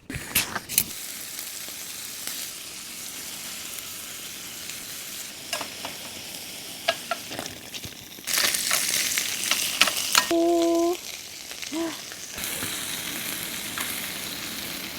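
Thin-sliced beef brisket sizzling and frying in a pan, with a few sharp clinks. The sizzle grows louder at about eight seconds and again at about twelve.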